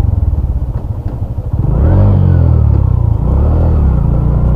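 Suzuki Hayate EP's small single-cylinder four-stroke engine running while the bike is ridden: the engine note picks up about a second and a half in, dips, rises again, then holds steady.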